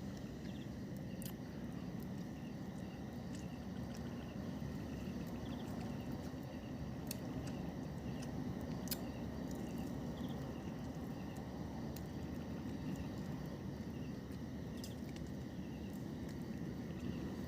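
Night insects, likely crickets, chirping steadily over a low steady rumble, with scattered sharp clicks.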